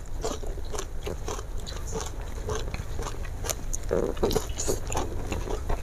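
Close-miked eating sounds: a person biting and chewing mouthfuls of food eaten by hand, with many short wet clicks and small crunches.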